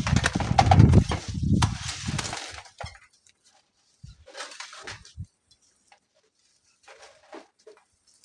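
Strong wind gusting and buffeting the microphone for the first couple of seconds, then dying away. After that come a few brief gritty scrapes and clinks.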